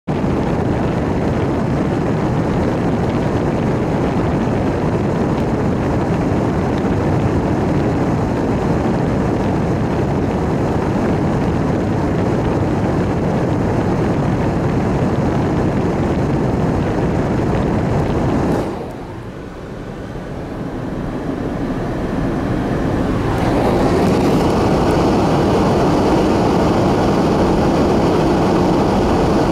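Steady, loud rushing noise with no distinct tones. It drops off suddenly about nineteen seconds in and swells back over the next few seconds.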